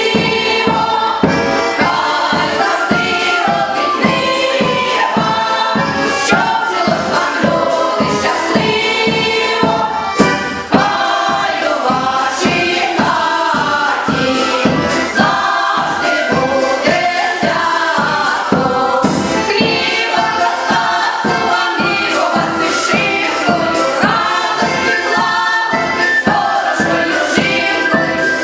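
Choir singing a Ukrainian song over instrumental backing with a steady beat.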